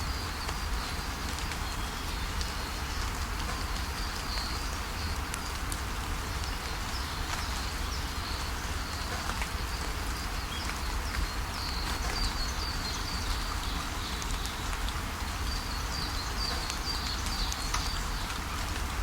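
Steady rainfall pattering on leaves, with small birds chirping in short high bursts that come and go several times over it.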